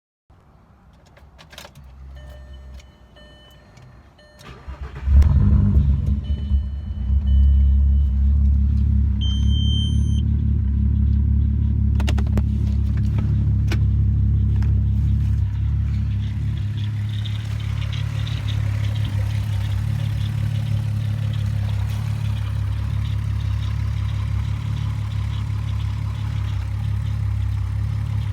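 Volkswagen Golf GTI VR6 engine, a narrow-angle six-cylinder, cranking and catching about five seconds in, after a few clicks and short beeps, then idling steadily. The owner reports a misfire on cylinder 3 that he suspects comes from a coil pack or the timing chain tensioner.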